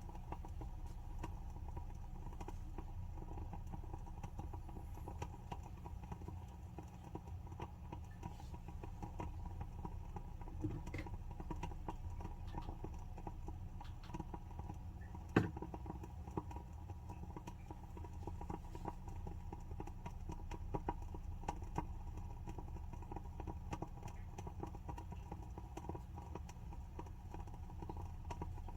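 WoodWick candle's wooden wick burning with a steady, fine crackle of rapid small ticks, and one sharper pop about halfway through.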